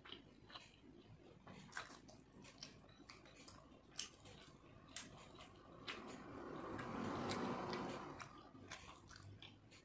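Quiet close-up eating sounds: chewing and soft mouth clicks and squishes as fried rice is eaten by hand. A soft rushing sound swells and fades from about six to eight and a half seconds in.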